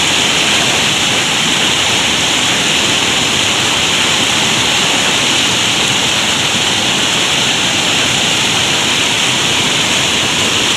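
Swollen mountain river in flood, rushing loudly and steadily after heavy rain.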